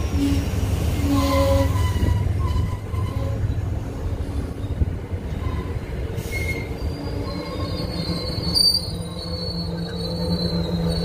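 MBTA commuter rail coaches rolling past close by: a steady low rumble of wheels on rail with thin wheel squeal tones, a longer high squeal setting in about two-thirds of the way through.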